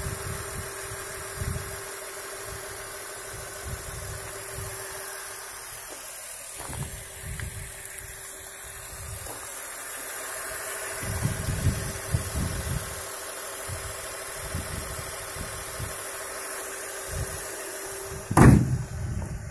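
Toyota 1JZ-GE 2.5-litre inline-six idling steadily under an open bonnet, with a thin constant whine over it. Near the end the bonnet is shut with one loud thud.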